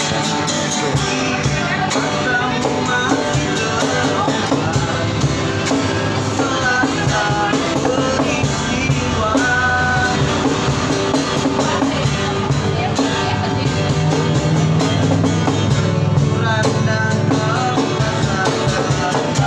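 Music: a song with a solo singing voice over an instrumental backing.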